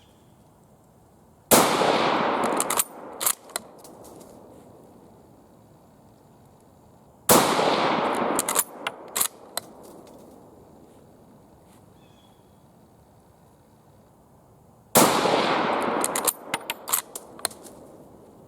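Three rifle shots from a Type 38 Arisaka bolt-action short rifle, six to eight seconds apart. Each shot rings out with about a second of echo, then a quick series of clicks as the bolt is worked to chamber the next round.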